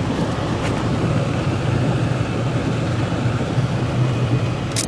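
Steady engine and road drone inside a moving car's cabin, with a sharp click near the end.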